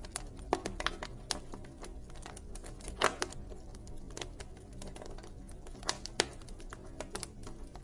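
Wood fire crackling: a stream of irregular small snaps and pops, with a few louder pops about three and six seconds in, over a steady low rumble.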